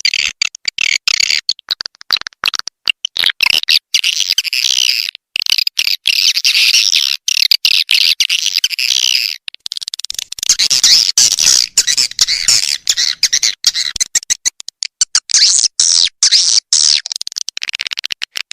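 Swiftlet lure recording: a dense flock of edible-nest swiftlets chirping and twittering, cut by many sudden short gaps. It is a calling sound played to draw swiftlets into a nesting house.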